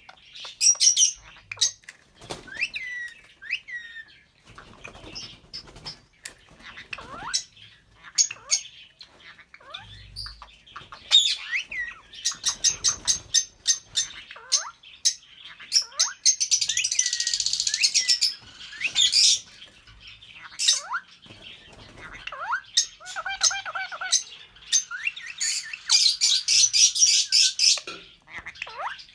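A pair of albino red-eyed lovebirds chirping and squawking in short, sharp, high calls. Twice, about halfway through and again near the end, they break into a rapid continuous chatter lasting two to three seconds.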